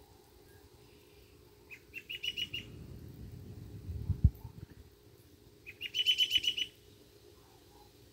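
A songbird calling twice, each time a quick series of high chirps lasting about a second, the second burst about four seconds after the first. Between them a low rumble builds and ends in a sharp thump about four seconds in.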